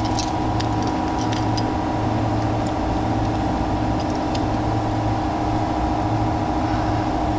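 A steady mechanical hum holding several fixed tones at an even level, with a few faint light ticks on top.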